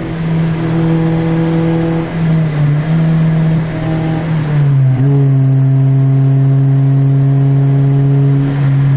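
Toyota Corolla 1.6 VVT-i inline-four droning through an open exhaust cutout while driving at a steady engine speed. The pitch drops a step about five seconds in and then holds steady at the lower note.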